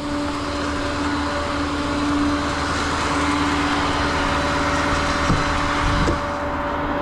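Tow truck's engine running steadily, a constant hum with an even rumbling noise beneath it.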